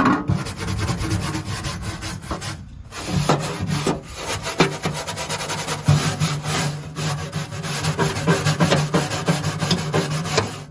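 Wire brush scrubbing surface-rust spots on a Jeep TJ's sheet-steel floorboard, in rapid back-and-forth scraping strokes, with a short break about three seconds in.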